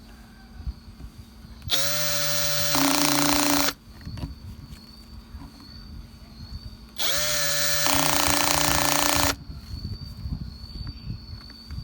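Electric angle grinder switched on twice, for about two seconds each time: the motor spins up with a rising whine, runs steadily, then cuts off. Between the runs a faint high whine and small handling clicks.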